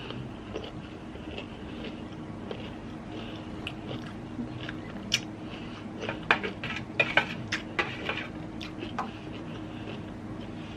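Close-up eating of a seafood boil: scattered sharp clicks and cracks, bunched together from about five to nine seconds in, over a steady low hum.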